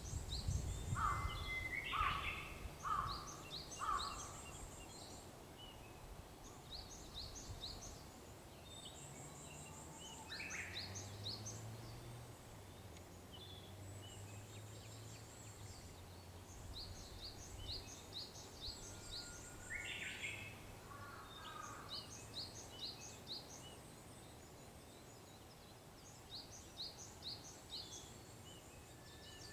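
Japanese bush warbler singing its whistled song a few times, each a held note breaking into a quick flourish, over many small birds' high, rapidly repeated chirps. Near the start another bird gives four louder, lower calls about a second apart.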